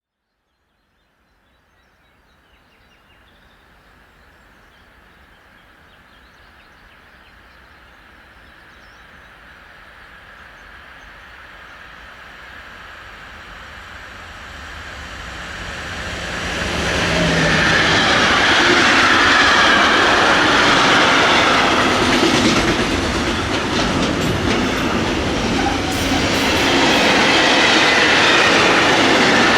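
Train approaching, growing steadily louder over about sixteen seconds, then passing close by with a continuous rumble and clatter of wheels on the rails.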